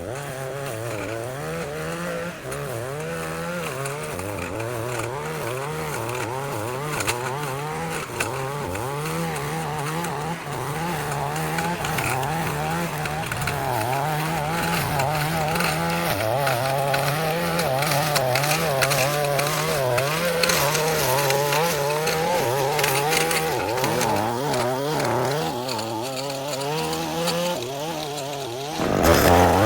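Small gasoline engine of lawn-care equipment running steadily, its pitch stepping up and down every second or two.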